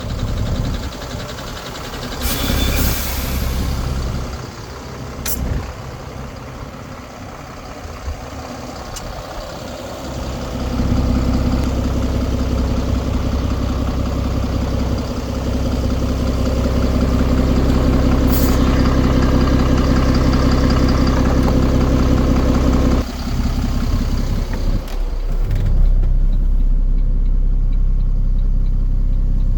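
IVECO Eurocargo 120E25 truck's diesel engine running, getting louder and fuller about ten seconds in. Short hisses of released air, like the air brakes, come near the start and again about halfway through.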